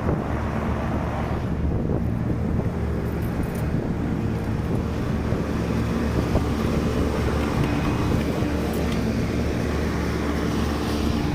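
Trane 25-ton packaged air-conditioning unit running steadily under a power-on test: a constant low machine hum with several pitched tones, over a rush of fan air.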